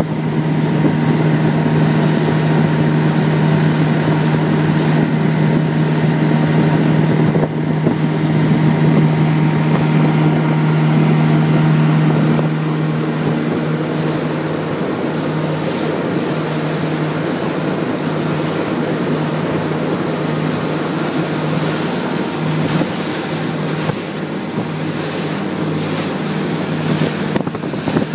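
Honda BF90 VTEC four-stroke outboard running steadily at full throttle, pushing a small fishing boat across open sea, with wind rushing over the microphone and water noise from the hull. About halfway through the engine tone becomes less prominent under the wind and water.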